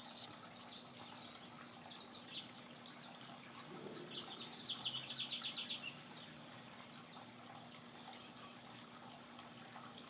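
Songbird singing: scattered short high chirps, then a rapid trill of about eight notes a second, lasting just over a second, near the middle. Under it runs a steady hiss with a low hum.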